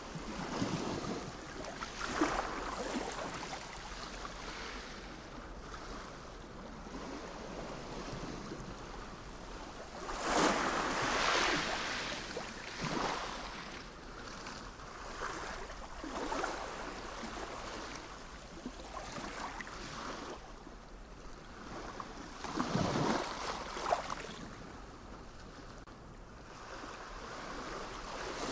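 Sea waves washing in and breaking on the shore, a hiss that swells and falls every few seconds, with the biggest surges about ten seconds in and again about twenty-three seconds in.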